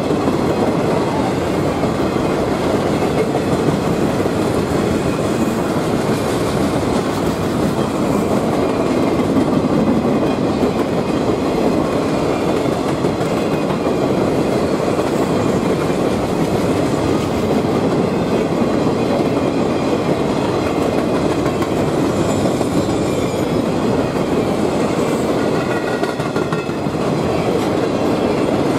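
A long train of empty sugar-cane cars rolling steadily past, steel wheels rumbling and clattering on the rails.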